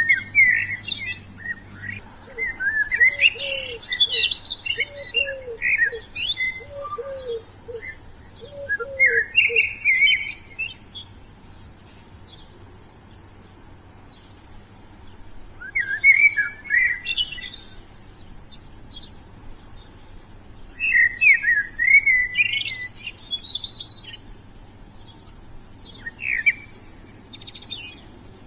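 Wild songbirds singing in bursts of quick, high chirping phrases separated by pauses of a few seconds. A second, much lower call repeats about six times during the first ten seconds.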